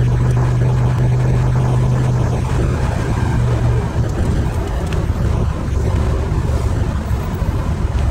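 Ferrari 308 GTSi's V8 engine heard from inside the cabin, running steadily at low speed in traffic, with its note easing off about four seconds in as the car slows.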